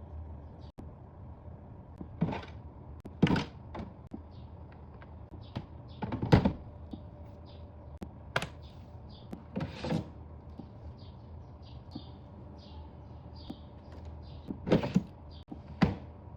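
Cardboard box and packaging being handled while unboxing: irregular knocks, bumps and handling noises, about seven separate ones, the loudest about six seconds in.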